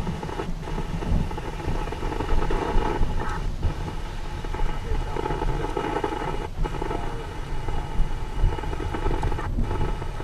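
Steady noise of a thunderstorm: heavy rain and wind, with a low rumble underneath.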